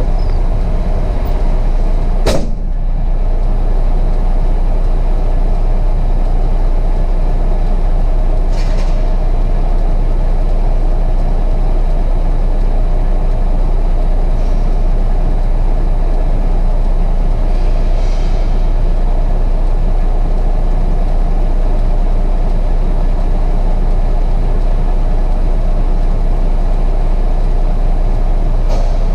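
Truck's diesel engine running steadily, heard from the cab, with one sharp click a couple of seconds in.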